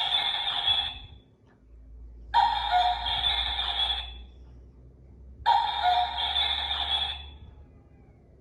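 A singing bird clock's small speaker playing the same recorded call three times, each lasting about two seconds, with short gaps between.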